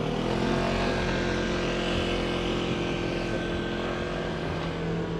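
Small engine running at a steady speed, a level droning hum that neither rises nor falls, most likely the motor of a motorized bicycle under way.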